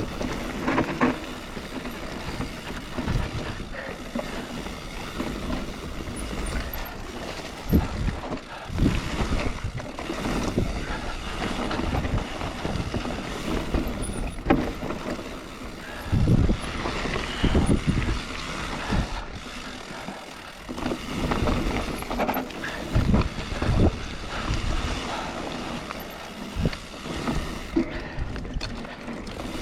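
Mountain bike ridden down a trail: steady wind on the microphone and tyre rumble, with rattles and a series of heavy thumps as the bike hits bumps.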